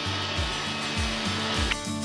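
Roomba 530 robot vacuum whirring steadily over background music with a regular beat; the vacuum's whir cuts off suddenly near the end, leaving the music.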